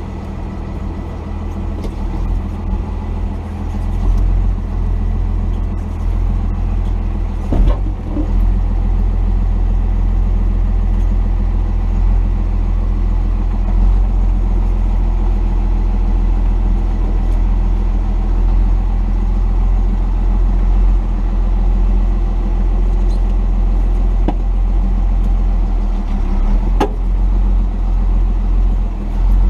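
1990 Dodge D250's Cummins inline-six turbodiesel running steadily as the truck drives, with two sharp knocks, one about a quarter of the way in and one near the end.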